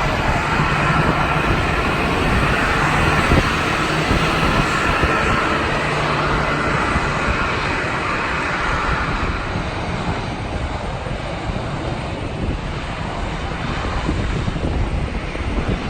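Jet airliner's engines running, a loud rushing noise with a faint whine that eases off somewhat after the middle, with wind buffeting the microphone.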